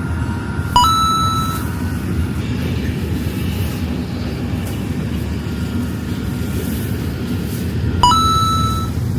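Two short, bright bell-like dings about seven seconds apart, each ringing out for about a second, over a steady low rumble.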